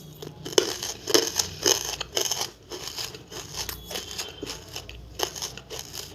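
Close-up chewing of chalky tabashir (bamboo silica) pieces: a quick, irregular run of sharp crunches, loudest in the first couple of seconds.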